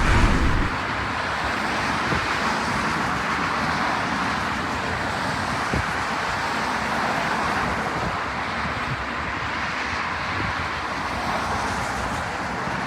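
Steady rushing noise of passing road vehicles, with no clear pitch.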